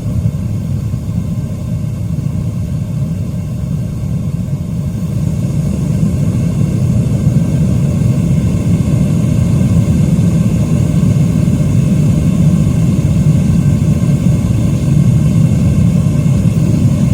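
Propane forge burner running with a steady low roar, growing somewhat louder about five seconds in.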